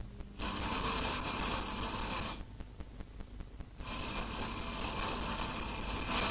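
Telephone ringing: two rings of about two seconds each, with a pause between them.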